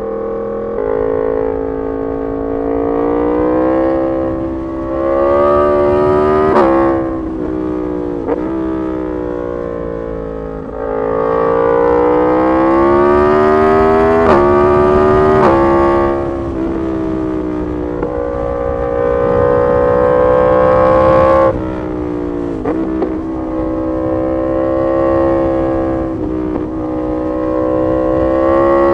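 2018 Yamaha MT-10 SP's crossplane inline-four through an SC Project exhaust, accelerating with its pitch climbing and then dropping sharply at each upshift, several times, with stretches of steady cruising between.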